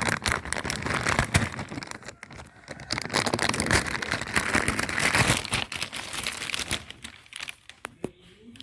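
Plastic packaging crinkling and rustling as it is handled and opened, a dense run of crackles that dies down about seven and a half seconds in.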